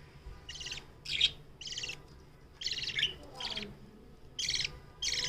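Budgerigars chirping: a string of about seven short, buzzy chirps spread over five seconds.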